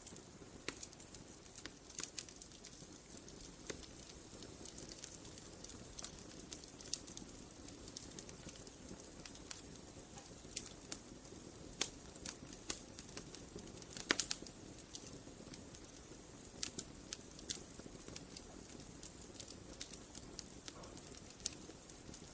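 Wood fire crackling: irregular sharp pops and snaps over a soft steady rush of flame, with a brief cluster of louder pops about fourteen seconds in.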